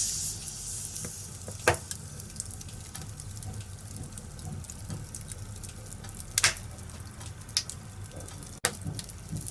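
A fire in a fireplace crackling steadily: a constant hiss with many small pops and a few louder snaps, two of them standing out about 2 and 6 seconds in. There is a brief dropout near the end.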